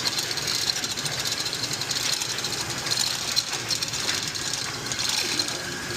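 A steady, fast mechanical rattle mixed with hiss, running without a break.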